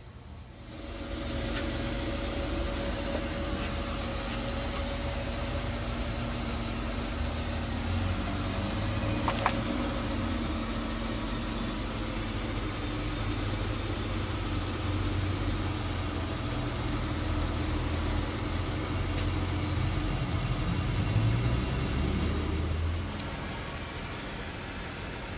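Car engine idling steadily with a low hum that drops in level near the end.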